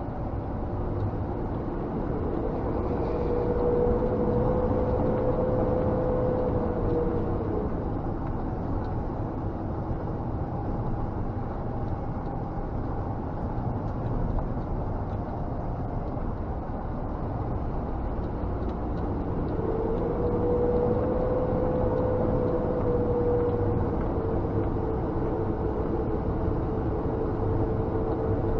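Scania G460 truck's cab noise while driving: steady engine and road rumble. A whine rises a few seconds in, fades out, and returns about two-thirds of the way through as the truck speeds up and slows in traffic.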